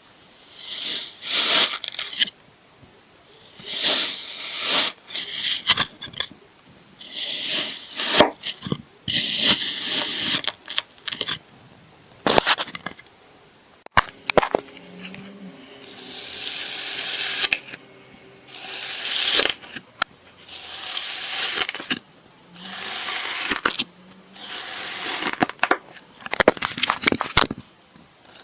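Kinetic sand being cut and crumbled, giving repeated crunchy, grainy bursts about one every two seconds, with sharp little clicks between them.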